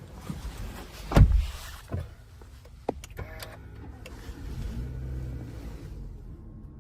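Toyota Alphard minivan being operated: a heavy thud about a second in, a lighter knock and a click, then a brief electric motor whine and a low hum.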